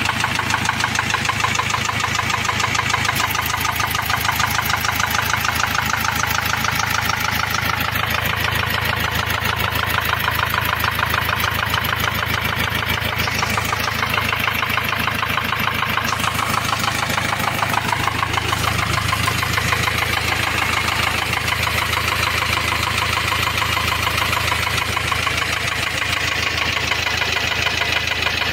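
Ford Transit diesel engine running at idle with a steady, rapid knocking clatter: the engine noise the van came with.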